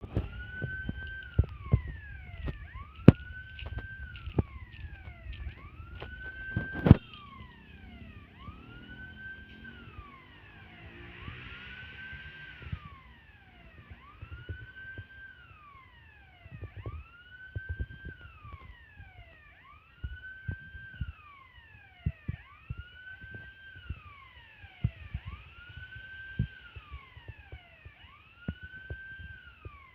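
Electronic warning siren wailing in a steady cycle: the pitch rises, holds, then falls, repeating about every three seconds. Sharp knocks and a low rumble come in the first seven seconds, the loudest about three and seven seconds in.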